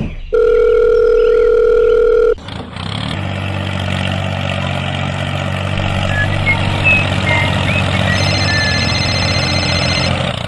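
A steady telephone tone for about two seconds, then a tractor engine running steadily at an even speed.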